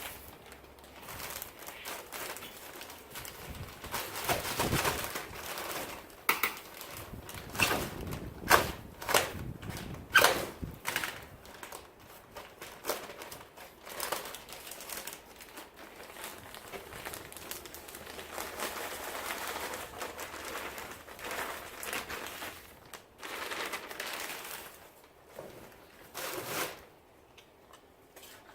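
A plastic bag of seed-starting compost being opened and handled: irregular crinkling, rustling and sharp snaps of plastic, densest in the first half, with a longer spell of steadier rustling later on.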